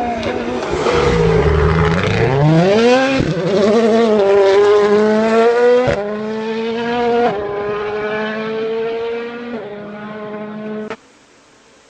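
Rally car engine at high revs: the revs dip, then climb steeply under acceleration and hold high with a few abrupt breaks. The sound drops off sharply near the end, leaving a much quieter stretch.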